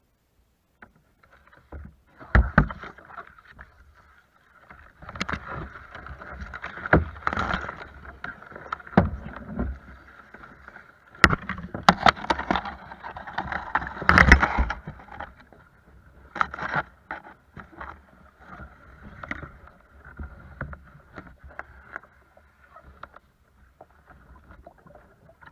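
A kayak moving on the water: irregular splashing and knocks against the hull, with a few louder thumps.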